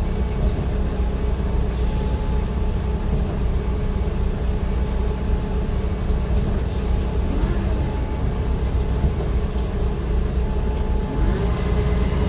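Steady low rumble of a moving vehicle, with brief hisses about two, seven and eleven seconds in.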